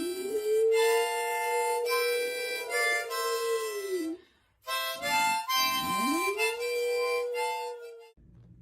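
Harmonica playing chords while a dog howls along: two long howls, each rising in pitch, held, then dropping away.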